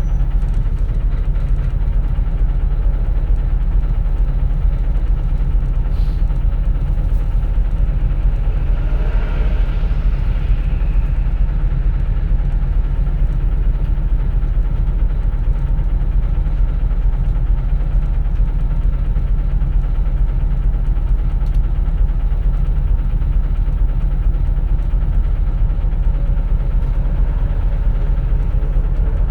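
Running sound heard inside a 2004 city bus powered by a compressed-natural-gas engine: a steady low engine and road rumble under way. A brief hiss rises and fades about nine to ten seconds in.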